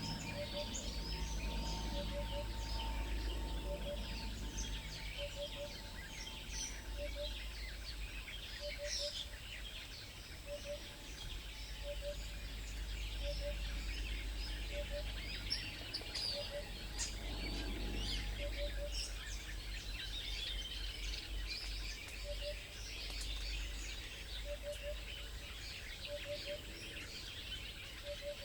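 Outdoor birdsong: many small birds chirping and calling over one another, with a low, short double note repeating about once a second and a steady low rumble beneath.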